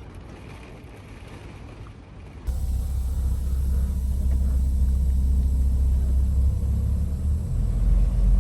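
Low background hiss, then about two and a half seconds in a sudden switch to a much louder, steady low rumble of a semi-truck's engine and road noise heard inside the cab.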